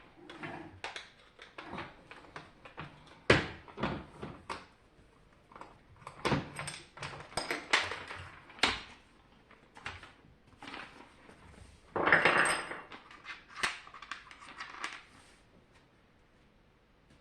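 Dehumidifier parts and tools being handled: irregular clicks, knocks and short rattles, with a longer clatter about twelve seconds in.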